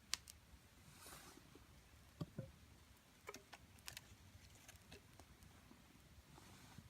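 Faint, scattered clicks and knocks with a brief rustle: hands handling firewood and kindling to start a campfire. A sharp click just after the start is the loudest sound, with two low knocks a little after two seconds.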